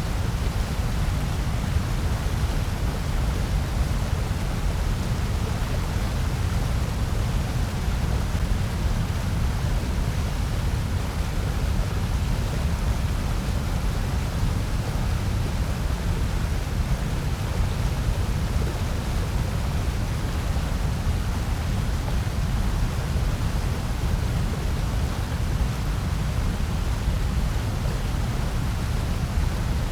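Steady electronically generated noise, presented as white noise: an even, unbroken hiss, heaviest in the deep bass.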